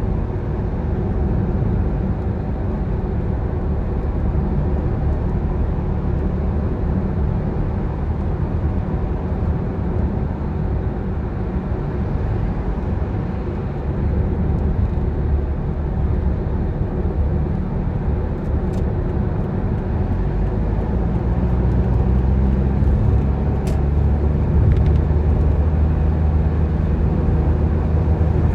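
Car driving on the road: a steady low engine and road rumble that grows louder and fuller about halfway through, with two brief sharp ticks near the end.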